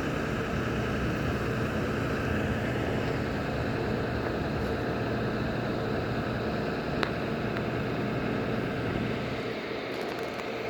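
A steady mechanical hum under a constant hiss, with one sharp click about seven seconds in.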